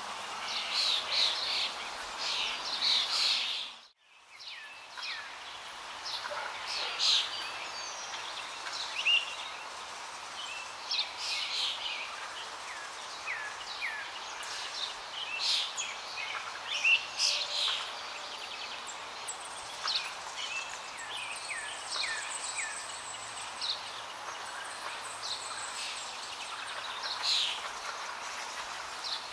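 Songbirds chirping and calling, many short notes over a steady background hiss. About four seconds in the sound drops out almost to silence, then fades back in.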